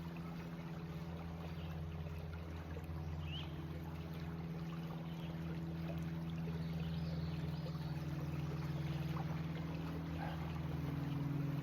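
A steady low engine drone, getting slightly louder from about halfway through, over running creek water.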